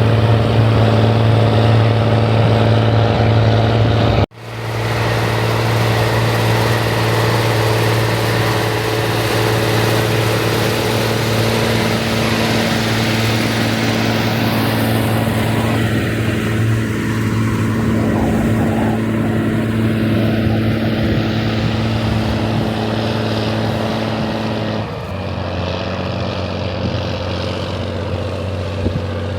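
Rába-Steiger 250 articulated tractor's diesel engine running steadily. The sound drops out for a moment about four seconds in. Near the end the engine note steps down lower and a little quieter.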